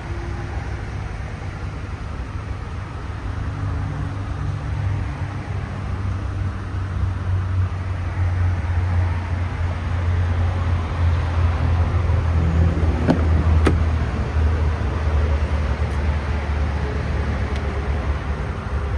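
A vehicle engine running with a steady low note that grows louder through the middle. Two sharp clicks come about two-thirds of the way through.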